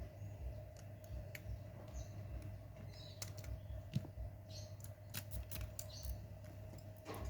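Scattered small clicks and taps from handling a smartphone's parts and tools during disassembly, over a steady hum and a few faint high chirps.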